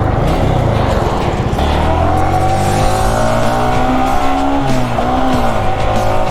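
Motorcycle engine accelerating: its pitch climbs steadily for about three seconds, then drops near the end at what sounds like a gear change.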